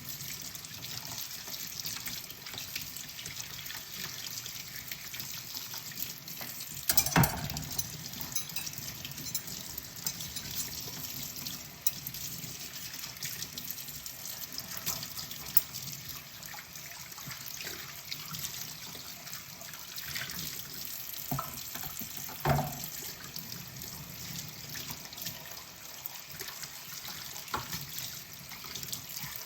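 Kitchen tap water running into a sink during hand dishwashing, a steady hiss of water with scattered light clinks of dishes. Two louder knocks of tableware come about seven seconds in and about twenty-two seconds in.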